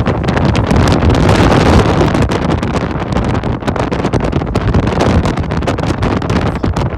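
Heavy wind buffeting the microphone in uneven gusts over a strong low rumble.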